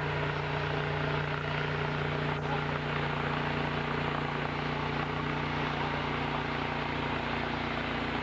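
Machinery running steadily: a constant drone with a low hum that holds one pitch throughout.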